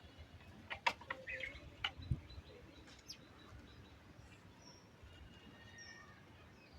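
Faint, brief high chirps scattered through the quiet, with a few sharp clicks in the first two seconds.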